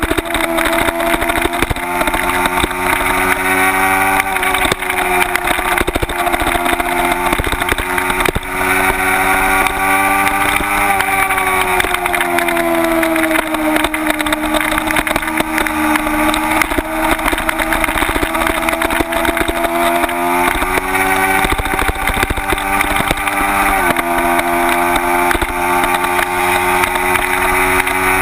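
Kawasaki Ninja 250's parallel-twin engine working hard at high revs on a race track, its pitch climbing and falling repeatedly with a few sudden steps as it is accelerated, shifted and slowed for corners. Heavy wind rush on the bike-mounted camera's microphone runs under it.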